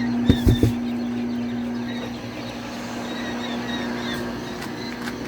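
A steady, one-pitch mechanical hum runs throughout. Young birds peep faintly over it. Three quick knocks come about half a second in.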